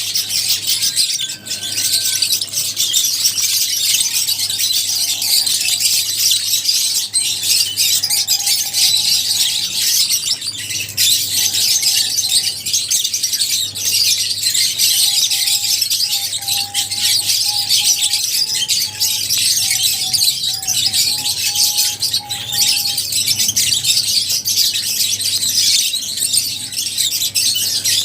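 A flock of lovebirds chattering: dense, continuous high-pitched chirping and twittering from many birds at once, with a few lower calls in the middle.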